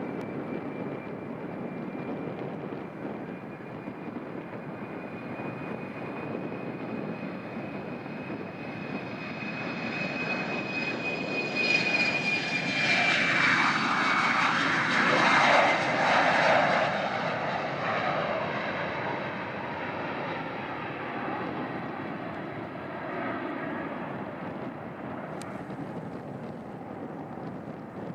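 Airliner passing close by: its engine whine holds steady, then drops in pitch as the aircraft goes past, with the engine noise swelling to its loudest about halfway through and then fading away.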